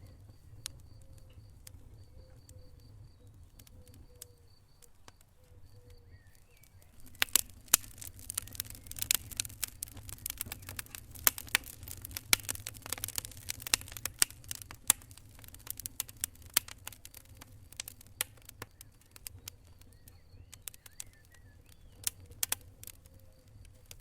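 Wood fire crackling and popping over a low steady rumble of flames: scattered snaps at first, a dense spell of sharp cracks from about a third of the way in to past the middle, then sparser snaps again.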